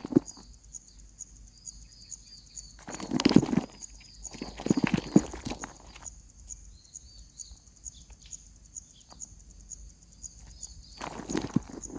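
Three bursts of scratching and rustling, the first a little after three seconds in, the second about five seconds in, the last near the end, against a steady high-pitched pulsing in the background.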